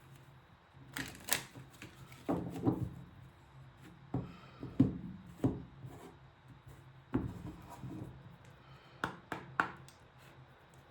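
Oracle cards being handled on a table: a scattered series of light taps and rubs as the deck is turned and cards slide against each other and the surface.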